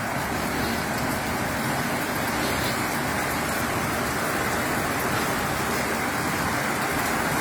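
Steady rain falling during a thunderstorm, an even rushing hiss that does not change.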